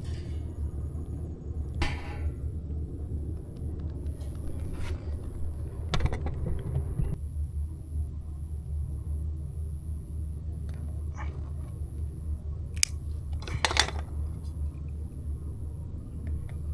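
Campfire being lit: a steady low rumble with a few sharp crackles and pops as the kindling catches, a cluster of pops coming near the end.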